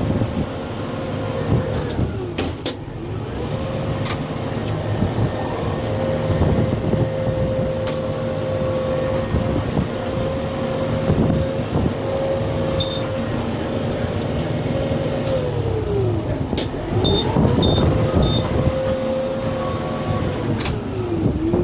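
Kubota M6-141 tractor's diesel engine running at working speed while the grapple pulls brush. Its pitch sags and recovers three times as the engine loads up. Several sharp cracks are heard, and three short high beeps come near the end.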